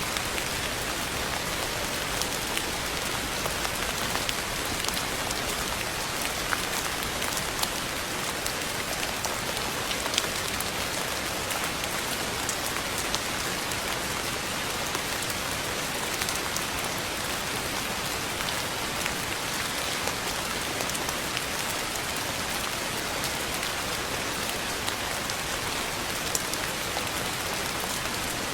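Steady rain falling on a surface: an even, continuous hiss with scattered sharper drop ticks standing out here and there.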